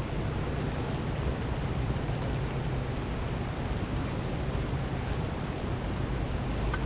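Fast river water rushing steadily, a continuous even noise with no breaks.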